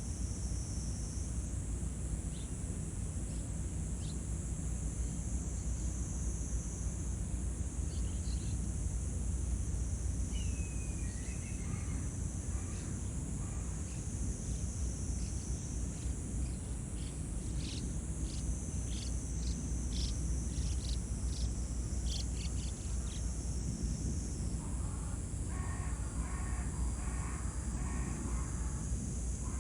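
Outdoor natural ambience: a steady high insect drone over a low rumble, with a few bird chirps around the middle, a run of quick ticking calls after that, and a rapid repeated call near the end.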